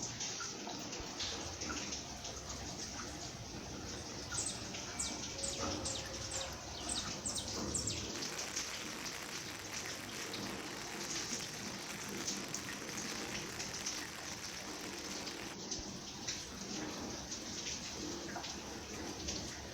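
Steady rain falling, a continuous hiss of many small drop ticks.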